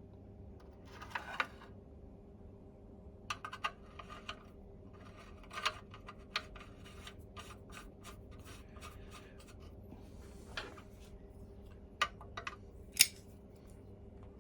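Scraping, rubbing and sharp clicks of small metal parts being handled: the filler cap being screwed onto the boiler of a Mamod SE1 toy steam engine. The sharpest clicks come near the end.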